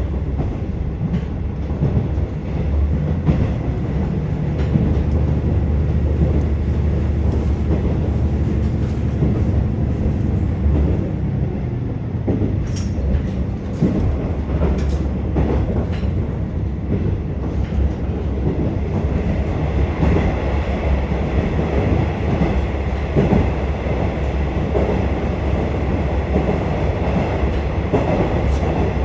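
Inside a KiHa 47 diesel railcar running along the line: a steady low rumble with the wheels clicking over rail joints, several sharp clicks about halfway through.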